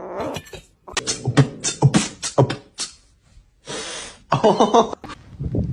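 A person beatboxing: a quick run of sharp percussive mouth beats, then a hissing burst and a short voiced sound.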